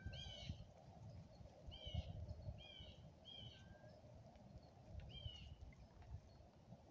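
Small birds chirping: about six short, high calls, clustered near the start, in the middle and around five seconds in, over a faint low rumble.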